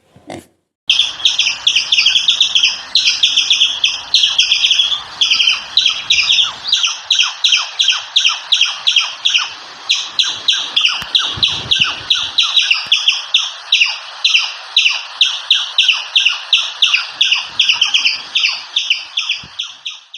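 Bird chirping in a long, rapid series of short high-pitched calls, several a second, starting abruptly about a second in.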